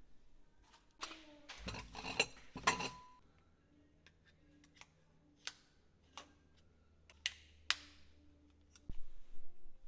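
Kitchen items being handled and set down: a cluster of clattering knocks and clicks in the first few seconds, then occasional single clicks and taps.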